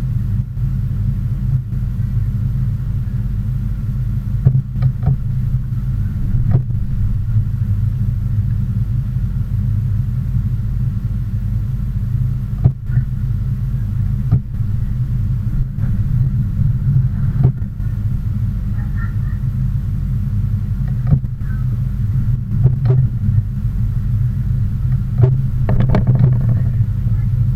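Steady low engine rumble, with a few brief clicks and knocks over it.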